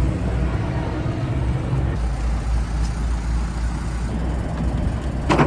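Semi truck's diesel engine idling steadily, with a sharp clack about five seconds in.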